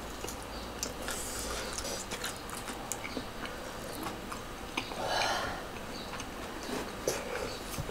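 Close-up eating sounds: chewing tteokbokki rice cakes and fried squid, with scattered small clicks of wooden chopsticks and a wooden spoon against a stainless frying pan. A short hiss comes about five seconds in.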